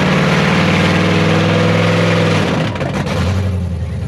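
Truck engine revving, held at high revs, then let off about two and a half seconds in and dropping back to a lower idle.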